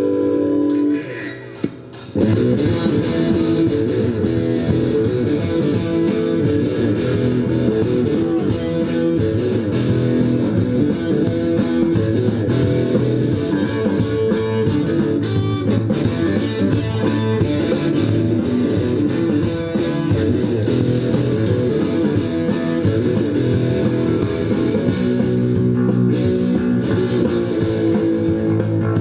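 Blues band playing, led by electric guitar over bass guitar; the sound drops briefly about a second in, then the full band comes in and plays on steadily.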